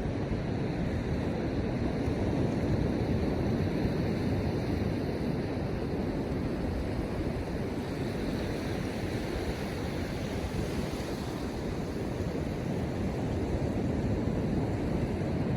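Ocean surf washing onto the beach, mixed with wind: a steady rush that swells gently now and then.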